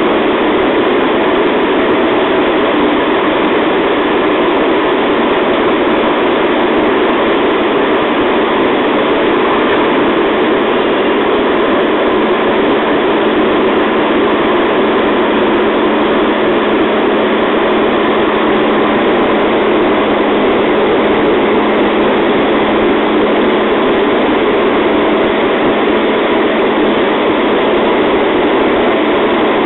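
JR East 211 series electric multiple unit running at steady speed, heard from inside the car: a constant rush of wheel and track noise with a steady low hum underneath.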